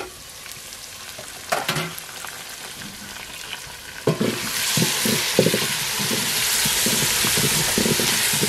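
Meat, tomatoes and onions sizzling in a hot metal pot, stirred and scraped with a wooden spoon. The sizzle and the scraping strokes start about four seconds in, after a couple of light knocks.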